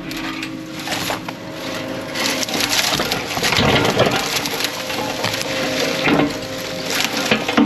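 Brush and branches crackling and snapping as they are crushed and torn out by an earthmoving machine. Under it the machine's engine runs with a steady hum. The breaking is densest from about two and a half to four and a half seconds in, with more snaps near the end.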